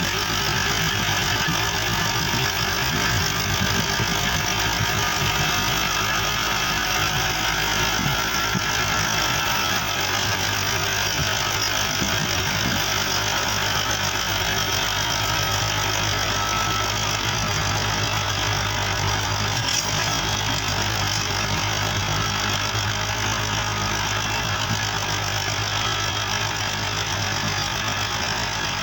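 Massey Ferguson 265 tractor's three-cylinder diesel engine running steadily while driving a rotavator, with a knocking diesel clatter over the implement's noise.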